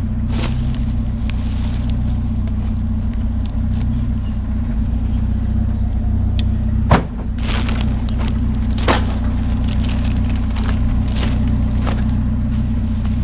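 A vehicle engine idling steadily, with a few scattered knocks and clatters. The sharpest knock comes about seven seconds in.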